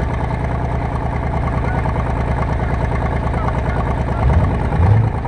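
Car engine idling with a steady, evenly pulsing low rumble that swells briefly near the end.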